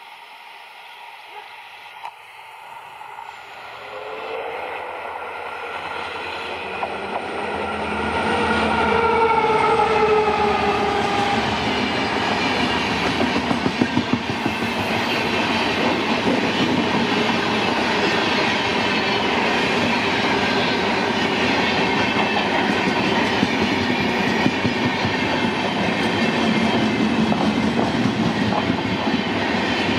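Express train passing close by. Its diesel locomotive builds up from faint to loud over the first several seconds, with a pitched note that falls as it goes by. A long rake of LHB passenger coaches then clatters past with a dense, steady clickety-clack of wheels over the rails.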